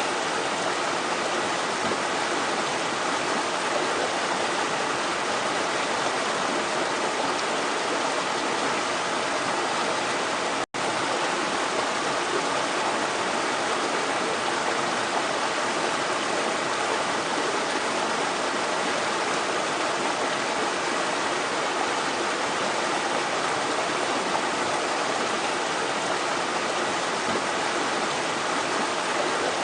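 Steady rushing of water running against rocks, an even, unbroken wash, with a momentary cut-out about a third of the way in.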